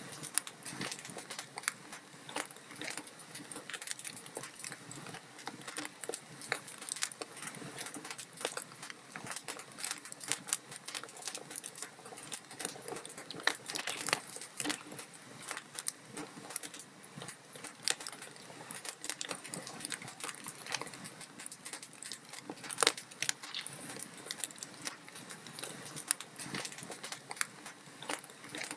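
Wood fire in a fireplace crackling steadily, with constant small snaps and now and then a louder pop, over a soft hiss.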